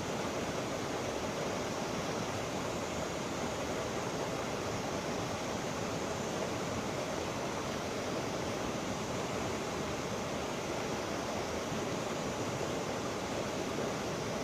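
Steady rushing of river water, an even noise with no separate splashes or breaks.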